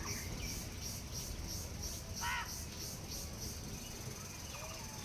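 Outdoor insects chirping in a high, pulsing chorus, about two pulses a second, that turns steady after about three seconds, with one short bird call about two seconds in and a low rumble underneath.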